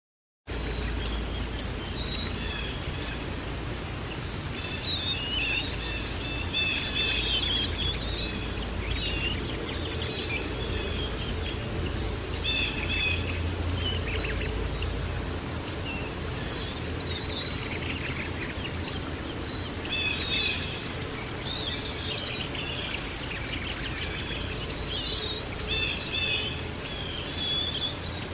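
Songbirds chirping and trilling continuously over a steady low background rumble, starting abruptly about half a second in.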